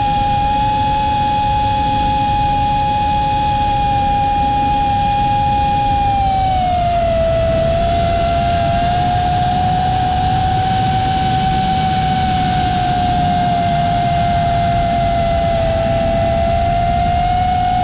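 Armattan Badger FPV quadcopter's brushless motors and propellers whining steadily over a rush of wind and prop noise, heard from its onboard GoPro. The pitch drops a little about six seconds in as the throttle eases, then holds.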